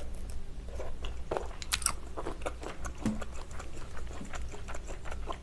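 A person chewing a mouthful of malatang close to the microphone: a steady run of short, wet mouth clicks.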